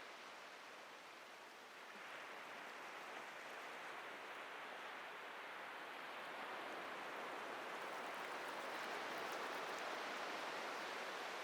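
Atlantic surf washing onto a beach as a steady rush of noise that swells slowly toward the end as a wave builds and breaks.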